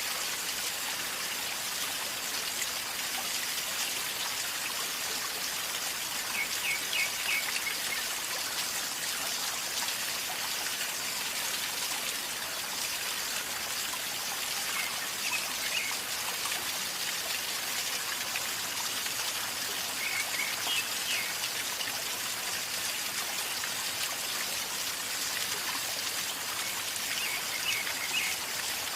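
A calmly flowing river, its water gurgling and rushing steadily. A bird gives short clusters of high chirps four times, several seconds apart.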